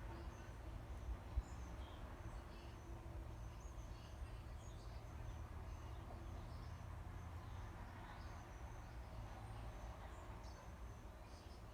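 Faint outdoor nature ambience: scattered short, high bird chirps over a steady low rumble, with a single sharp knock about a second and a half in.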